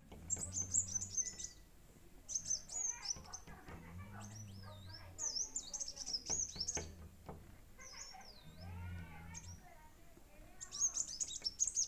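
Small birds chirping and twittering in quick high-pitched bursts, several calls overlapping, busiest at the start and again near the end. A low hum comes and goes underneath.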